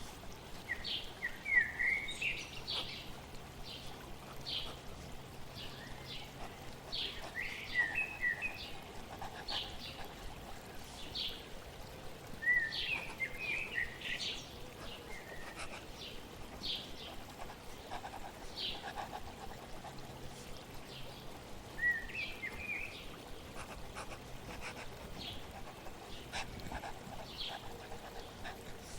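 Small songbirds chirping and twittering over a steady background of flowing water, with short single chirps throughout and busier bursts of twittering about two seconds in, around eight and thirteen seconds in, and again near twenty-two seconds.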